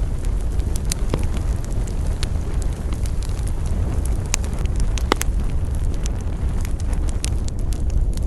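Wood campfire burning: a steady low rush with scattered sharp crackles and pops, a louder pair of pops about five seconds in.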